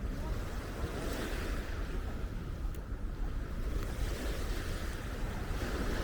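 Small waves of the Baltic Sea washing onto a sandy beach, the wash swelling about a second in and again near the end, with wind rumbling on the microphone.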